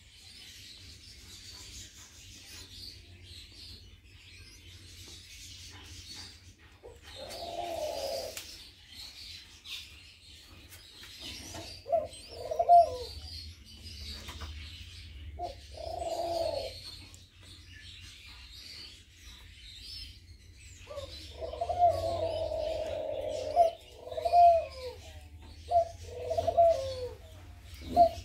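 Pigeons cooing in separate bouts, a few seconds apart, with a longer coo about three quarters of the way through and several quick coos near the end. Faint high-pitched bird chirping runs underneath.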